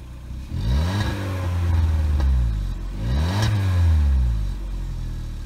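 Maruti Suzuki Ignis's 1.2-litre four-cylinder petrol engine heard at the tailpipe, revved twice from idle. The pitch rises about half a second in, holds, drops back near three seconds, then climbs again and settles back to idle near the end.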